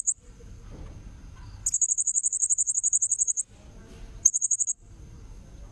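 Blue-crowned hanging parrot (serindit) calling: rapid trains of high, shrill, pulsed notes. One train runs for nearly two seconds, and a short burst follows about four seconds in. A low rumble sits under the gaps.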